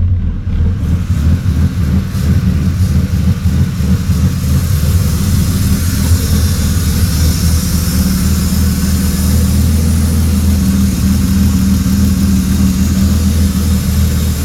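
BMW M52B28 2.8-litre straight-six engine running at a steady idle, with a hiss that builds over the first few seconds.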